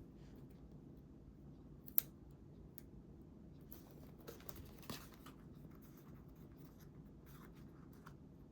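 Quiet hand-crafting sounds of scrapbooking at a desk: one sharp click about two seconds in, then soft scratching and handling of paper, with a few faint light ticks near the end.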